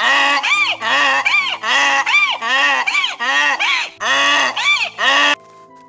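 Donkey braying: a long run of rapid, alternating hee-haw calls, each in-breath note arching up and down in pitch, stopping abruptly about five seconds in.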